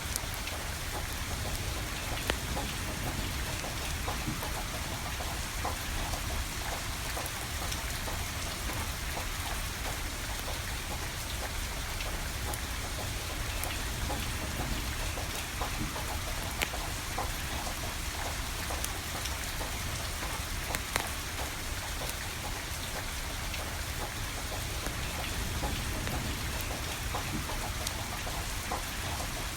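Steady rain falling, with sharp crackles and pops of a burning wood fire scattered through it, a few louder pops standing out.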